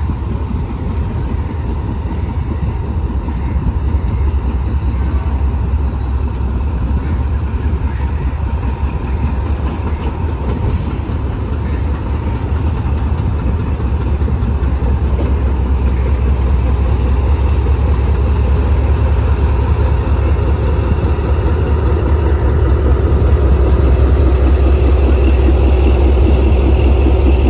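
Diesel locomotive engine running with a heavy, steady low rumble that grows gradually louder through the second half.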